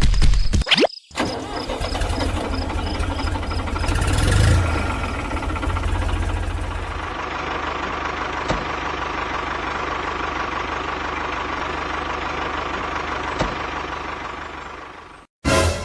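A small engine running steadily, with abrupt cuts between takes: a short dropout about a second in, a sudden change in tone midway, and a stop near the end.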